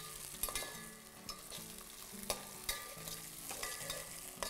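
Green peas and whole spices frying in oil and ghee in a pot, with a faint sizzle and a spoon clicking and scraping against the pot now and then as they are stirred.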